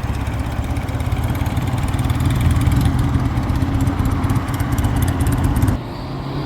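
Motorcycle engine idling steadily with a low, even running note. The low rumble cuts off abruptly near the end.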